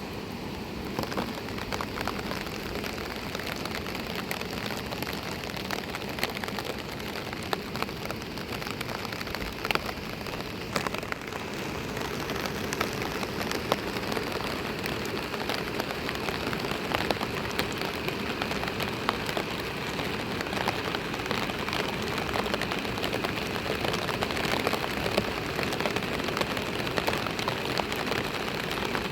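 Steady rain falling, with a dense scatter of individual drops striking a surface.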